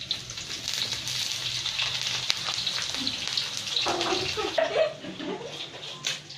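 Sliced sausage frying in hot oil in a wok, a steady sizzling hiss that starts as the pieces go in.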